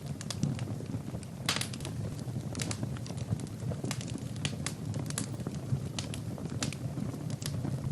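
Wood fire burning in a fireplace: a steady low rumble of the flames with sharp, irregular crackles and pops of the burning logs, several a second.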